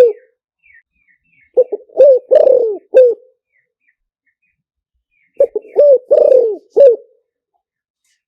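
Spotted dove cooing: the end of one phrase right at the start, then two full phrases about four seconds apart, each a run of four or five low coos.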